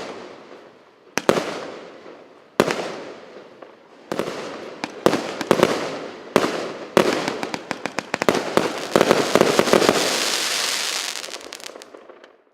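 1-inch, 128-shot firework cake firing: single bangs with echoing tails at first, then shots coming faster and faster, ending in a dense crackling that dies away near the end.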